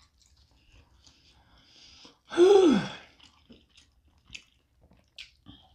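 A person chewing a mouthful of burger, open-mouthed, with faint wet mouth clicks. About two and a half seconds in comes a short wordless vocal sound that falls in pitch, louder than anything else.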